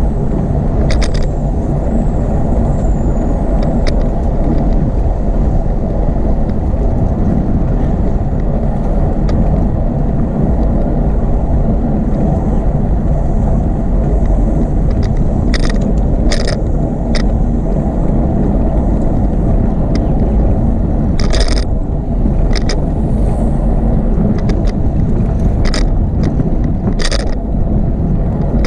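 Steady low rumble of riding noise from a bicycle on a paved path: wind and rolling tyres, with a few short clicks or rattles scattered through.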